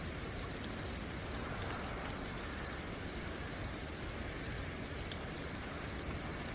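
Steady rain falling, with crickets chirping in a continuous high trill.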